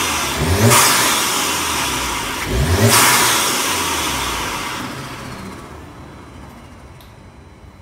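A 2016 Audi A3's 2.0-litre TFSI turbocharged four-cylinder is revved twice through an aFe cold air intake with its filter cover off. Each rev rises in pitch and carries a loud rush of intake air, then the sound dies away over the last few seconds. It sounds louder with the intake open.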